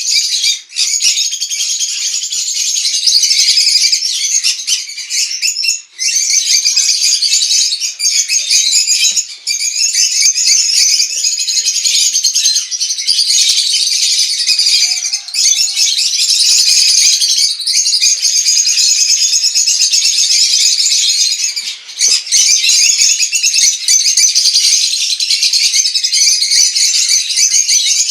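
A flock of green-cheeked conures (Pyrrhura molinae) chattering and calling together: a dense, high-pitched twittering, broken only by a few brief lulls.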